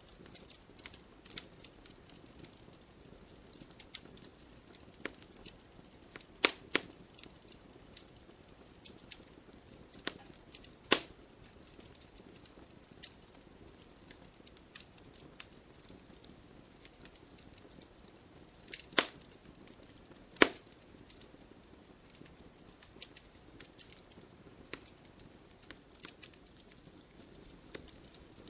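Wood fire crackling in a fireplace: an irregular scatter of small sharp pops over a soft hiss, with a handful of louder snaps.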